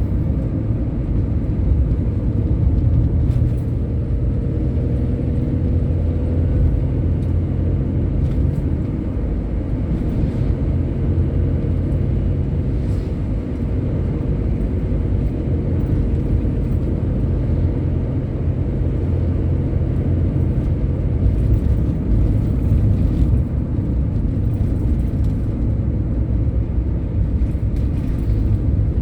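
Road vehicle driving at speed: a steady, loud low rumble of engine and tyres on the road.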